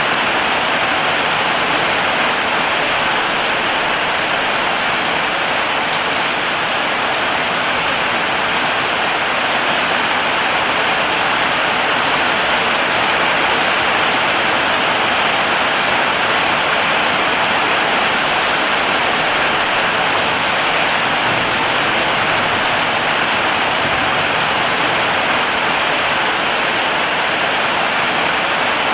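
Heavy rain falling steadily, a dense even hiss of drops with no breaks or changes.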